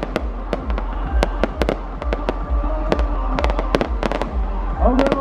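Fireworks display: a rapid, irregular barrage of sharp cracks and bangs, many with deep booms beneath them.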